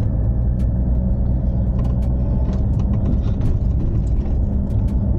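Car engine labouring in first gear up a steep incline, a steady low drone, with scattered knocks and rattles from the rough unpaved track.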